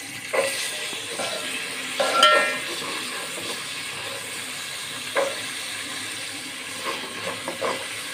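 Green peas sizzling in hot oil in a metal cooking pot while being stirred with a metal slotted spoon, a steady frying hiss. The spoon scrapes and knocks against the pot, with one loud ringing clang about two seconds in and a few lighter knocks later.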